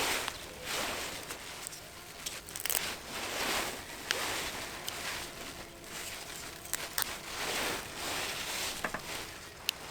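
A series of rustling, crunching sounds, about one a second, with a few sharp clicks.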